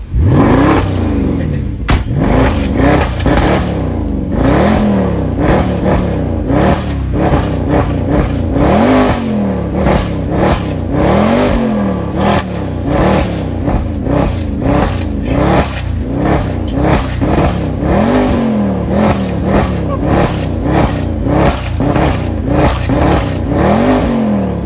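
Mercedes-Benz C63 AMG's 6.2-litre V8 revving hard, its engine note rising and falling over and over, with many sharp cracks along the way.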